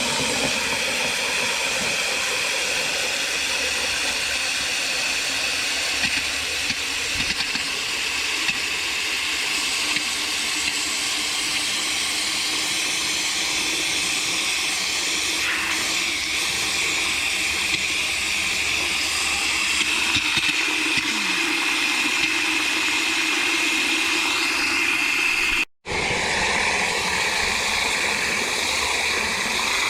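Water from a garden hose pouring steadily into a plastic wash bucket, filling it. It breaks off briefly near the end.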